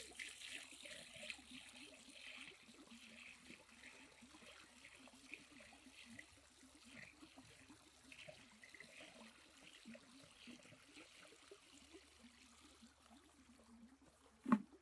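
Faint water trickling and lapping, with small splashes that are busiest at the start and thin out. A single sharp knock comes near the end.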